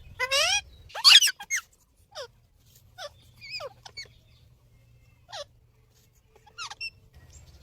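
Parrot giving a string of short, shrill calls, several sliding down in pitch. The loudest calls come about a second in, then they grow sparser.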